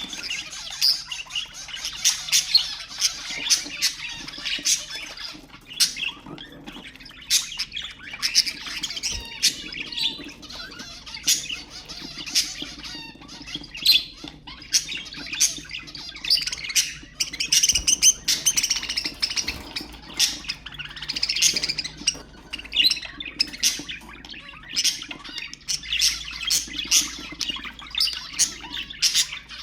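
Budgerigars chattering: a dense, continuous run of sharp chirps, squawks and warbling calls.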